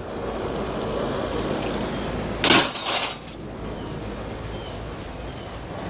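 Scrap steel from a stripped ceiling fan tossed onto the steel scrap pile: one short clatter about two and a half seconds in, over steady background noise.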